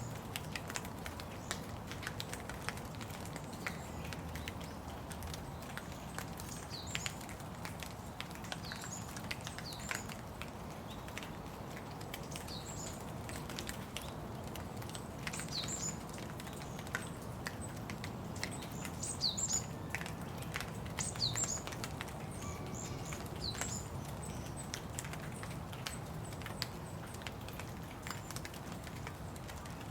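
Steady rain pattering, with many small drop ticks. Through the middle a bird gives short, high, downward-sliding chirps again and again.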